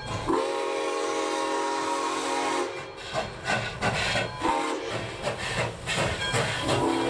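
Steam locomotive whistle blowing a long chord-like blast. It cuts off, then the locomotive's exhaust chuffs about three to four times a second, and near the end the whistle sounds again.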